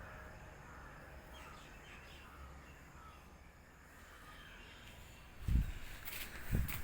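Faint bird calls over a quiet outdoor background, then two heavy low thumps near the end, each followed by a brief rustling noise.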